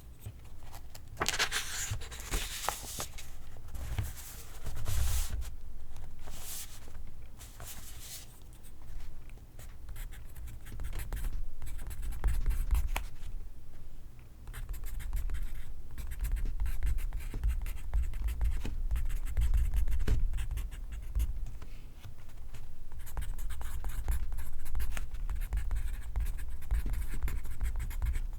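Pencil writing on paper: a run of quick scratchy strokes, heavier and broader in the first few seconds, then steadier fine writing strokes.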